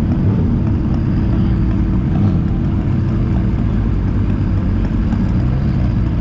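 Car engine idling steadily at close range, low and even with no revving.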